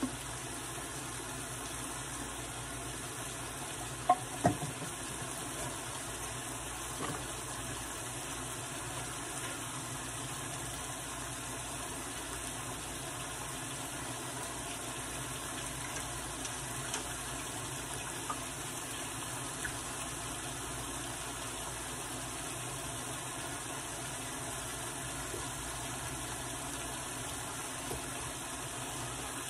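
Chicken and bell pepper fajita strips sizzling steadily in a large frying pan, with ripe plantain slices frying in oil in a second pan. Two sharp knocks of a utensil against a pan come about four seconds in, and a few faint clicks come later.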